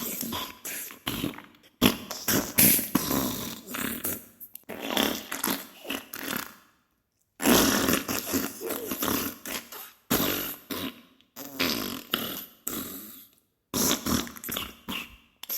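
Diarrhea sound effect: loud farts in a rapid run of short, crackly pops, broken by two brief pauses, one near the middle and one about two-thirds through.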